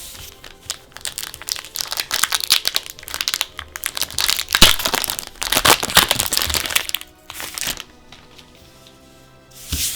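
Plastic and foil card-pack packaging crinkling and crackling as it is handled and opened, in a dense run of rustles that stops about 8 seconds in. Another brief crinkle comes near the end.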